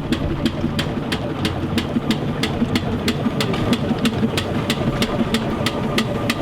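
Steam traction engine running steadily, with a low rumble and a rapid, even clicking from its moving parts, about five a second.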